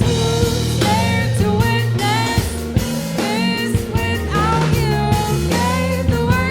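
Live band playing a psychedelic rock song: guitar and bass with drums keeping time, over a lead line of sliding, bending notes.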